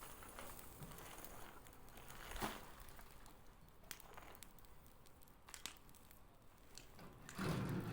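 Bonfire crackling quietly, with scattered sharp snaps and pops from burning wood and roots, one louder snap about two and a half seconds in and a brief louder rustle near the end.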